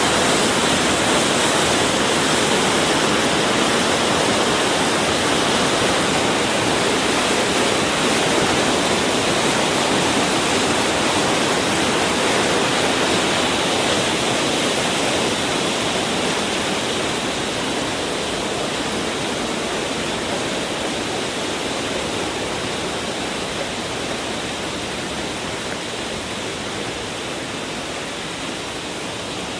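Waterfall rushing: a loud, steady roar of falling water that slowly grows quieter over the stretch.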